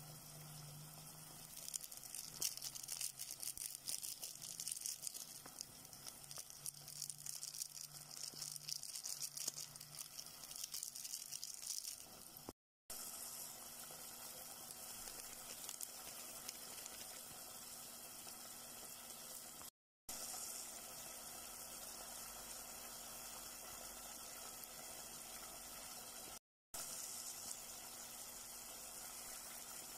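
Chicken livers, onion and garlic sizzling in hot oil in a pan, with busy crackling for the first several seconds, then a steadier, softer sizzle cut by three brief dropouts.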